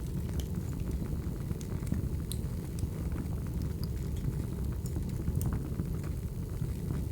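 Firewood burning: a steady low rumble of flames with scattered small, sharp crackles and pops.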